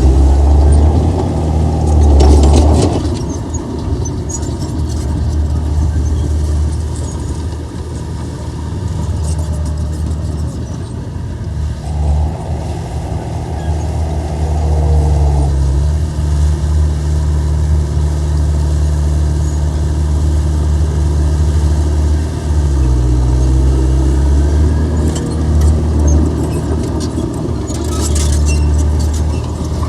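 Komatsu bulldozer's diesel engine running steadily under load; its pitch drops and recovers about two-thirds of the way through, with short bursts of rattling noise near the start and near the end.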